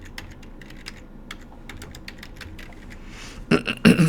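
Typing on a computer keyboard: irregular key clicks, a few a second. A man's voice comes in near the end.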